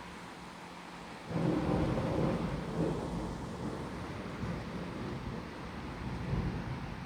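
Thunder rumbling over steady rain: the rumble breaks in suddenly about a second in, loudest at first, then rolls on unevenly.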